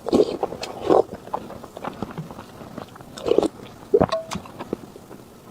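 Close-miked eating sounds: several loud bites, near the start, about a second in and again around three and four seconds in, with quieter chewing between.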